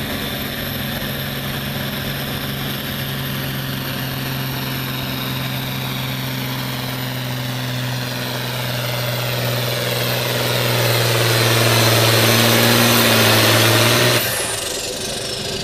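Modified farm pulling tractor's engine running hard at full power as it pulls the sled down the track. It grows louder toward the last few seconds, then cuts off abruptly near the end, leaving a high whistle that falls away as the engine winds down.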